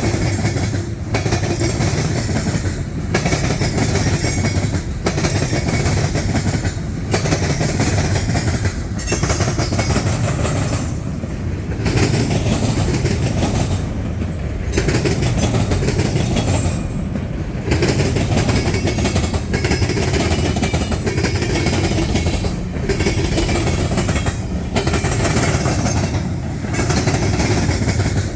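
Canadian National freight train's cars rolling past, a steady clatter of steel wheels on the rails with a regular beat about every two seconds as each car goes by.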